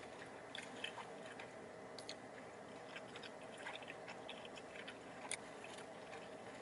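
A person chewing a mouthful of chicken sandwich, faint, with small scattered mouth clicks and one sharper click about five seconds in.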